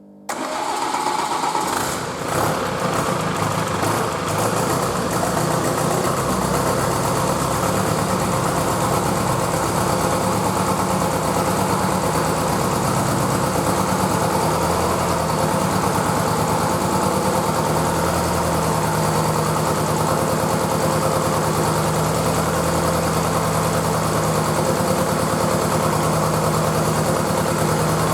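Renault 1.9 dCi F9Q four-cylinder turbodiesel catching and starting, running unevenly for the first few seconds, then settling into a steady idle.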